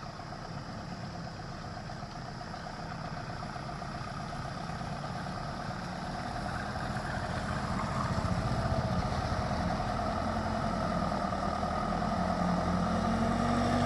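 Medium-size truck engine running and growing steadily louder as the truck approaches, with a low engine note rising slightly near the end.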